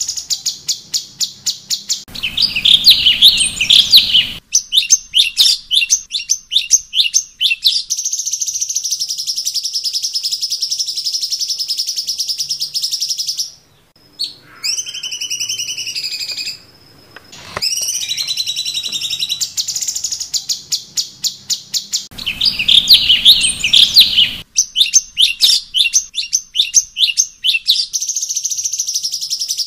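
Recorded cucak cungkok birdsong: rapid series of high chirps and trills with a long stretch of continuous fast chatter, briefly dropping away near the middle. The same passage comes round again about twenty seconds later, as a looped training recording would.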